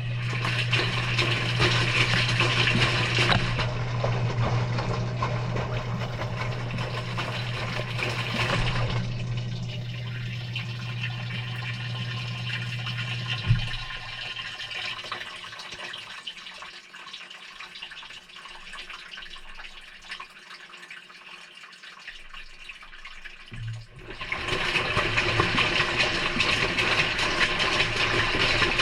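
Maytag front-loading washing machine in a delicate cycle, heard from inside the drum: water rushing through the machine over a steady low electric hum. The hum and rush cut out about 13 seconds in, leaving quieter sloshing, then start again suddenly near the end.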